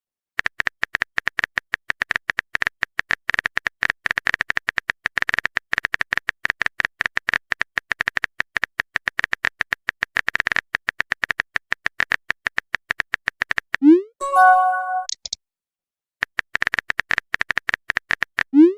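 Rapid phone-keyboard typing clicks for about thirteen seconds, then a short rising pop and a bright chime as a chat message is sent. After a brief pause the typing clicks start again, and a second pop and chime comes at the very end.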